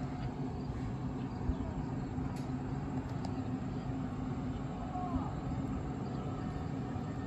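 A train's steady rumble, with a few faint clicks over it.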